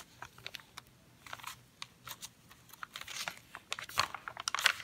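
Paper and card being handled: irregular crinkling and rustling with small clicks, busier around three seconds in and again near the end.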